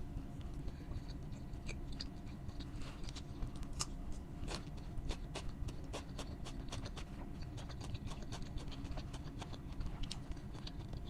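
Close-miked eating: irregular crisp crunches and mouth clicks from chewing fried food, over a steady low hum.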